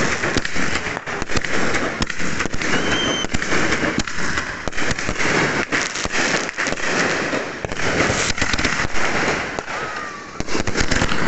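Many fireworks exploding at once, a dense, continuous barrage of bangs and crackling with the occasional faint whistle.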